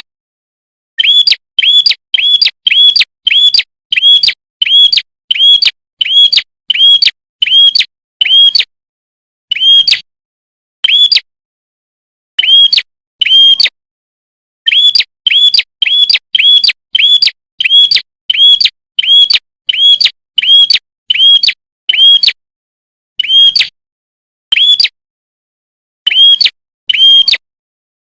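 Red-headed prenjak, a small warbler, calling loudly: a long run of identical sharp, high chirps, each with a quick upward flick, about two to three a second, broken by a couple of short pauses.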